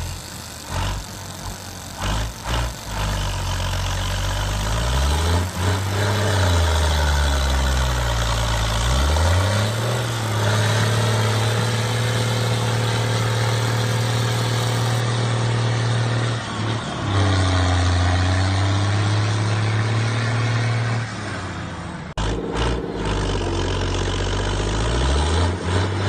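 Motor of a homemade toy tractor dumper running, its pitch sliding down and back up several times before holding steady, with a few more drops and recoveries later on.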